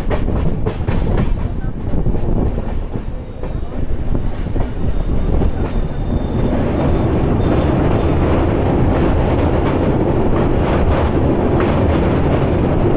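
Passenger train running at speed, heard at an open coach door: wheels clacking steadily over the rails. About six seconds in the train rolls onto a steel truss bridge and the rumble turns louder and fuller.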